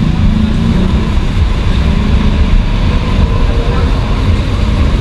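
Steady road traffic rumble with people talking indistinctly in the background.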